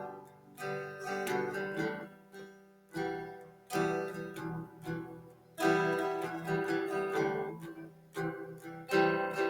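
Background music: acoustic guitar strumming chords that ring out between strums.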